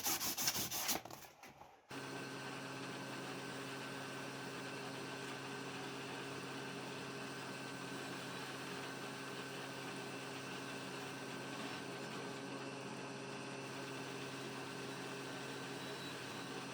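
Quick rhythmic rubbing strokes, as of sanding, for about the first second, then after a short gap a steady hum with several fixed tones that holds unchanged.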